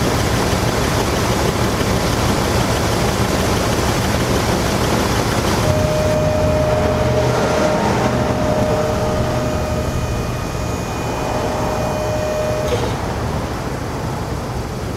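1998 Dodge Ram 3500 dump truck's 5.9-litre engine running steadily, with a steady whine added from about six to thirteen seconds in.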